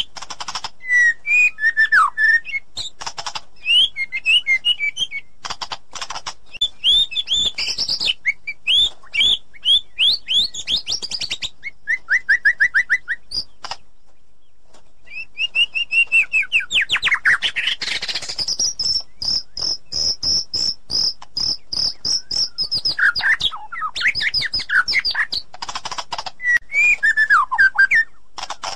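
White-rumped shama singing a fast, varied song of whistled phrases, chirps and trills, with a brief pause about halfway and a long, steady high note later on.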